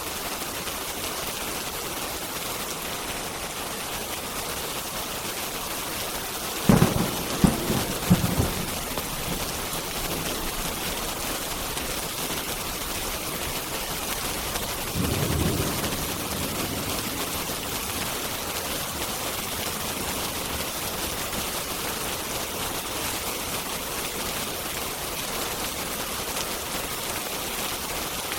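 Steady rain, with a loud thunderclap of several sharp cracks about a quarter of the way in and a softer rumble of thunder about halfway through.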